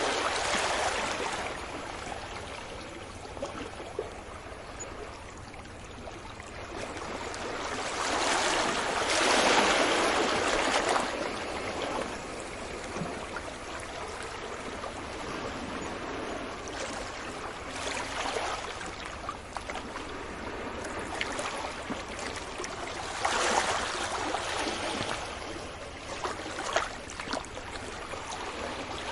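Sea waves breaking on a beach: a continuous wash of surf that swells into louder breakers near the start, about nine seconds in and again about twenty-four seconds in, each fading back into the hiss of the receding water.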